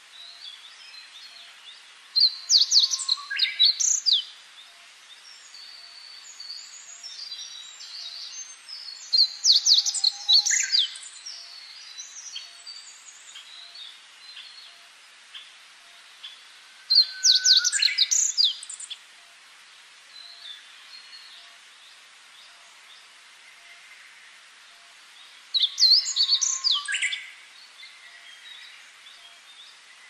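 A songbird singing a loud, quick phrase of high, sliding notes four times, about every eight seconds, with fainter chirps of other birds in between.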